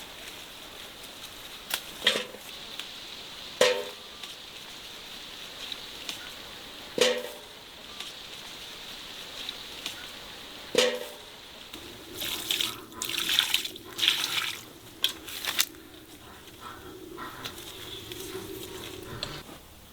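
Water running and splashing, with several sharp knocks in the first half and a spell of louder splashing about two-thirds of the way in.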